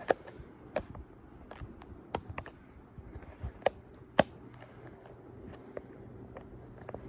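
1981 Fasco Parlor ceiling fan motor running with a faint steady hum. Irregular sharp clicks and knocks sound over it, the loudest five in the first half.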